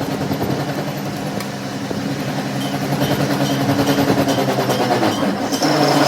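A motor running steadily with a low hum and rapid pulsing, getting louder partway through.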